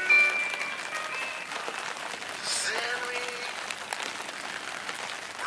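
Wood fire crackling in a fireplace: a steady hiss with scattered sharp pops. A short voice-like sound comes about two and a half seconds in.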